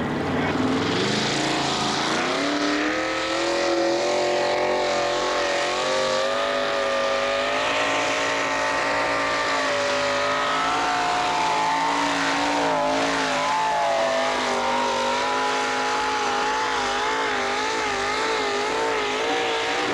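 A pulling tractor's engine running flat out under load, its pitch climbing over the first few seconds and then holding high with a constant wavering as it drags the sled.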